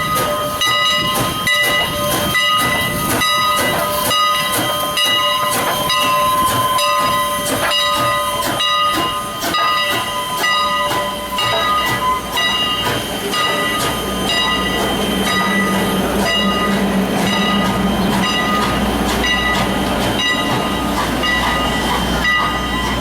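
Steam-hauled passenger train of the Strasburg Rail Road running, with a dense series of clanks and rattles under several steady high-pitched squealing tones. A low rumble and hum come up about fourteen seconds in.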